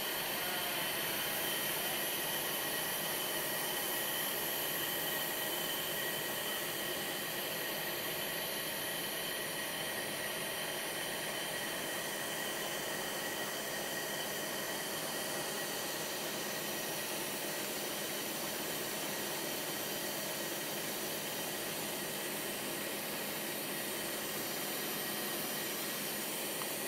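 Steady hiss with a faint high-pitched whine, unchanging throughout, from the electrical and ventilation equipment of a standing electric train.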